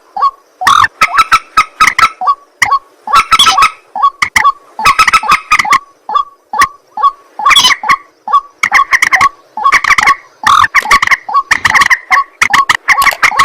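White-breasted waterhen (ruak-ruak) calling over and over: loud, harsh, croaking notes in rapid clusters that repeat about every second or so.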